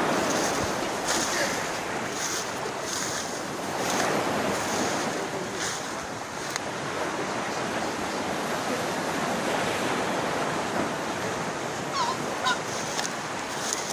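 Waterfall water rushing in a steady, unbroken wash of noise. A few short high chirps come through near the end.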